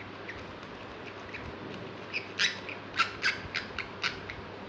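A bird giving a quick, irregular run of short, harsh squawking calls, starting about two seconds in and ending a little after four seconds, over low steady room noise.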